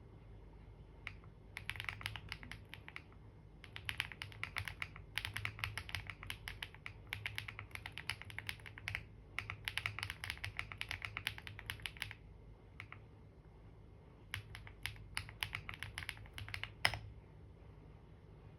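Computer keyboard typing in quick runs of key clicks, broken by short pauses, with one louder key stroke near the end, over a faint steady low hum.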